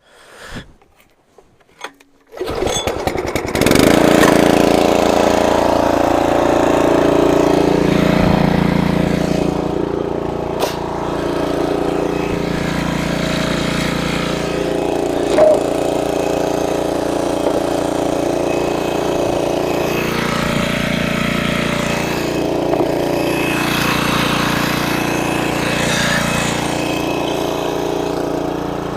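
Tractor engine being started, cranking briefly and catching about two and a half seconds in, then running steadily.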